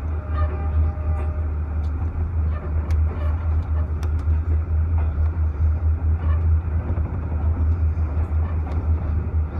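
Passenger train running through a station: a steady, deep rumble with scattered faint clicks and knocks.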